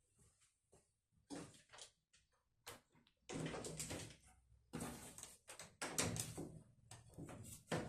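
Irregular knocks, clacks and scraping rubs of hard parts being handled and fitted together, in bursts lasting up to about a second.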